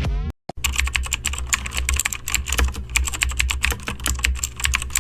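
Fast typing on a computer keyboard: dense, irregular key clicks, starting about half a second in after a brief cut, over a steady low hum.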